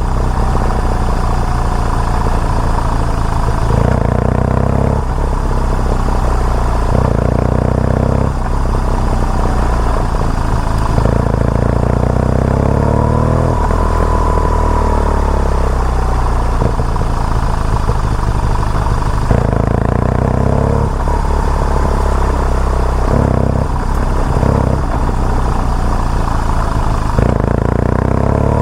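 BMW R nineT Urban G/S boxer-twin engine running under way, its revs rising and falling in steps as the rider works the throttle and gears, with steady wind and road noise.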